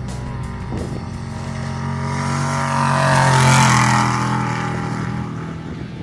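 Off-road race vehicle's engine passing by at speed: the engine and tyre noise swells to a peak about three and a half seconds in, then fades as the engine note drops.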